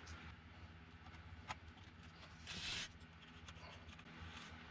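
Faint handling noise from hand assembly work: a few small clicks and a brief scraping rustle about two and a half seconds in, over a low steady hum.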